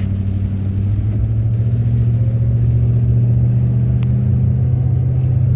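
A car's engine and road noise droning steadily, heard from inside the cabin.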